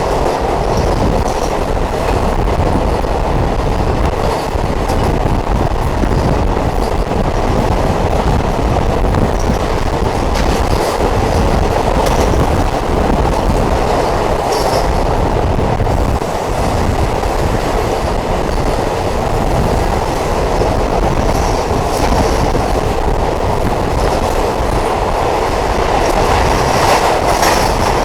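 Diesel multiple unit train running along the track, a steady, loud noise of wheels on rail, with faint high-pitched squeaks now and then.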